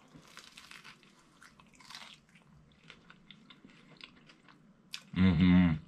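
A bite into a fried Philly cheesesteak egg roll, its wrapper crunching, followed by close-up chewing with small clicks. Near the end comes a loud, short hummed 'mmm' from the eater.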